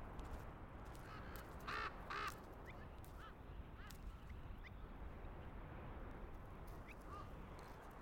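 Two short, harsh bird calls in quick succession about two seconds in, over a steady low background hiss, with a few faint high chirps afterwards.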